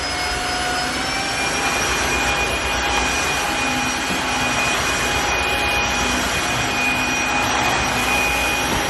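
Tineco iFloor S3 cordless wet-dry floor cleaner running on max: a steady rushing suction noise with a high motor whine, which steps slightly up in pitch about a second in.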